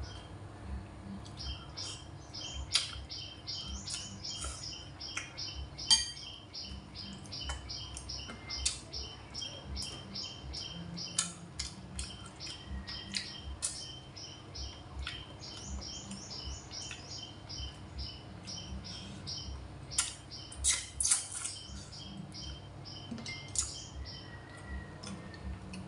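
Close-miked eating sounds: rapid, rhythmic chewing and mouth clicks, about three a second, pausing briefly midway. Now and then a spoon or chopsticks clink sharply against the bowl.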